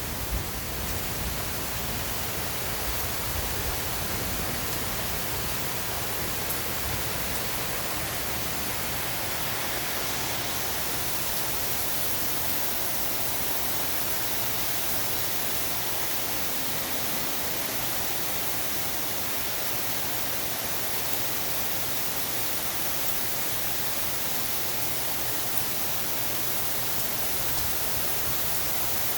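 Steady heavy rain falling, an even hiss that holds at one level throughout; a low rumble of thunder dies away in the first second.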